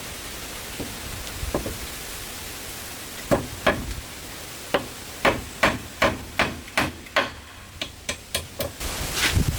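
Repeated sharp blows of a hand tool striking, two to three a second, starting about three seconds in after a few lighter taps.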